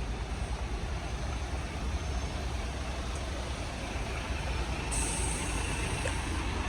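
Street traffic with a heavy vehicle's engine rumbling close by. About five seconds in, a high hiss joins the rumble.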